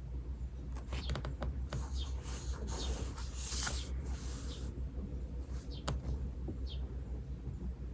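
Pen writing on paper: a run of scratching strokes and small taps over the first half, with another tap near the end. Short high bird chirps come now and then over a steady low hum.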